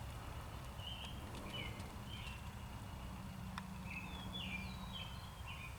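A bird calling in a series of short, high chirps that fall in pitch, some in quick runs, over a low steady background rumble. There is a single small click about three and a half seconds in.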